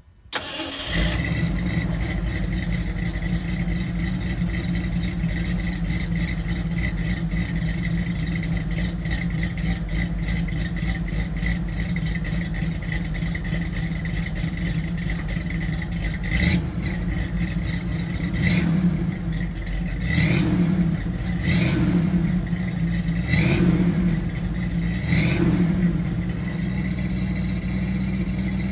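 1981 Ford F100's 4.2-litre V8 starting and exhausting through a single-outlet Thrush welded muffler: it catches within about a second, settles into a steady idle, then is revved in six short throttle blips over the second half.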